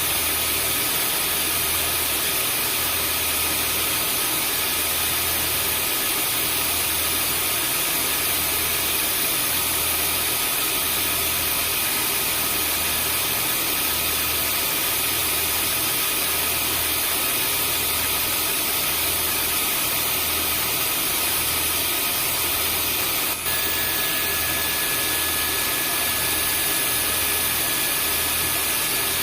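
Vacuum cleaner running steadily: a constant rushing hiss of air with a high motor whine, over a low hum that pulses about once a second. About 23 seconds in there is a brief dip in level, after which an extra whine tone joins.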